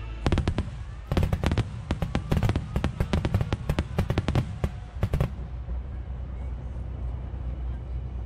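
Finale volley of aerial firework shells bursting: dozens of sharp bangs in quick succession for about five seconds, stopping suddenly and leaving a steady low rumble.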